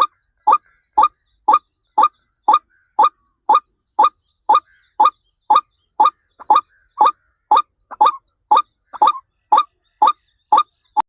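A bird's short call repeated steadily, about twice a second, stopping just before the end.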